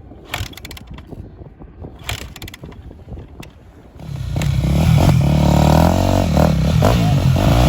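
Dirt bike engine: after a few seconds of low rumble with scattered clicks and scrapes, the engine comes in loud about four seconds in and runs on, its pitch rising and falling as the throttle is worked.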